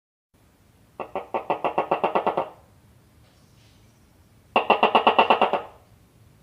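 House gecko calling: two quick runs of sharp chirps, about nine a second, the first about a second in and lasting a second and a half, the second starting about four and a half seconds in and lasting about a second.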